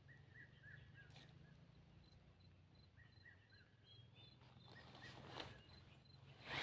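Near silence outdoors with faint bird chirps, a few short runs of them, and a faint high call repeating about three times a second, over a low steady hum.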